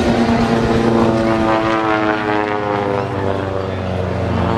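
Propeller airplane engine droning loudly, its pitch slowly falling as it passes.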